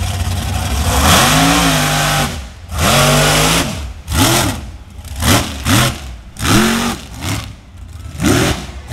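Big-engined Chevy mud race truck revved hard again and again, the pitch climbing and dropping with each burst of throttle: two long revs, then a run of shorter quick revs about once a second.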